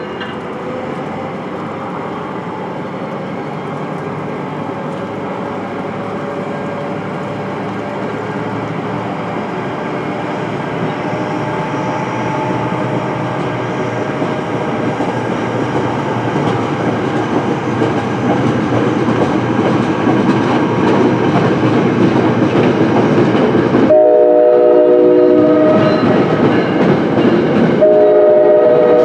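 NJ Transit ALP-45DP dual-mode locomotive running on its diesel engines and pulling a passenger train past, with engine and wheel-on-rail noise that grows steadily louder. Near the end the locomotive's horn sounds twice: a blast of about two seconds, then a second one a couple of seconds later.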